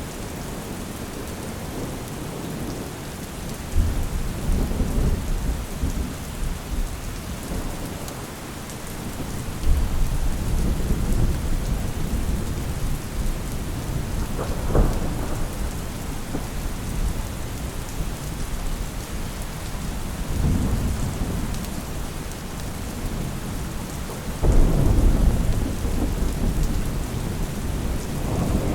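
Steady rain falling, with rolls of thunder rumbling in several times, the loudest starting suddenly near the end, and one sharp crack about halfway through.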